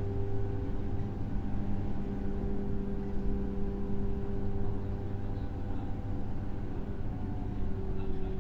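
On-board sound of a JR 103-series electric motor car (MoHa 103) with MT55 traction motors: a steady low hum over a constant rumble.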